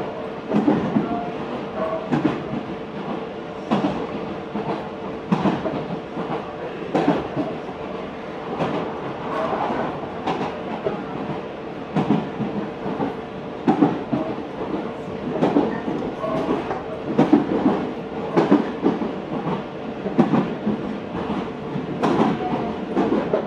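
Meitetsu 4000 series electric train heard from inside the car while running between stations. The wheels clack over rail joints about every 1.7 seconds over a steady rumble and hum.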